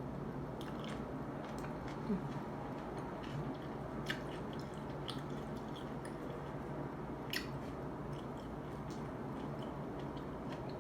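Close-miked chewing of shrimp ceviche: wet, squishy mouth sounds with scattered short sharp clicks, over a steady background hiss.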